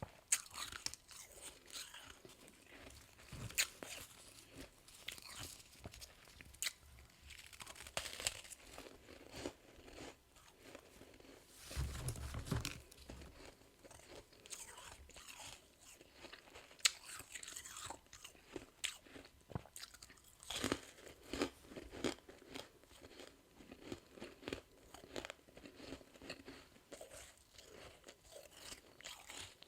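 A person biting and chewing soft freezer frost, with repeated crisp crunches and crackles as the ice breaks between the teeth. A low bump sounds near the middle.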